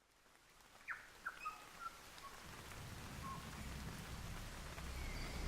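Birds chirping as a forest ambience fades in: a few short, falling chirps in the first two seconds, over a low rumble that grows steadily louder.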